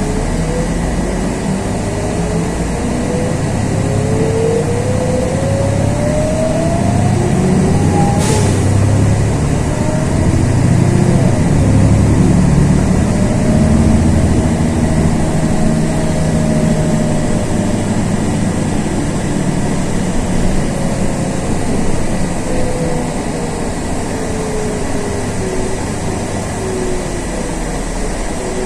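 Inside a LiAZ 6213.22 articulated city bus under way: engine rumble with a transmission whine that rises in pitch as the bus gathers speed. A sharp click about eight seconds in, then the whine falls slowly as the bus eases off.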